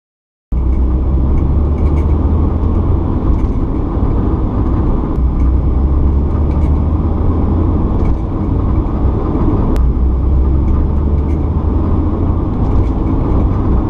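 Acura Integra's four-cylinder engine and stock exhaust heard from inside the cabin, accelerating hard in third gear from about 20 to 40 mph. It makes a steady deep rumble mixed with road noise across repeated back-to-back runs.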